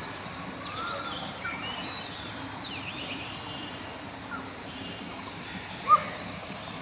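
Birds chirping and twittering, many short calls, over a steady background hiss, with one louder short call about six seconds in.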